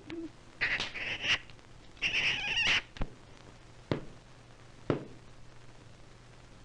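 Cartoon cat sound effect: two short yowling cries, followed by three sharp knocks about a second apart, over the hiss and hum of an old film soundtrack.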